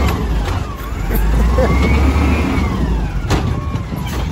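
Volvo WX refuse truck engine revving, with a whine that rises and falls as the Bridgeport Ranger automated side-loader arm moves, and a sharp knock about three seconds in.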